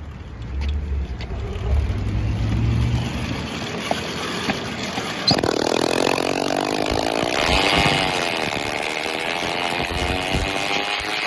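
The Phantom 85's engine running with no exhaust fitted, an open unmuffled note. It runs low and steady at first, then about five seconds in it revs up sharply and pulls away, its pitch rising and wavering before settling into a steady cruise.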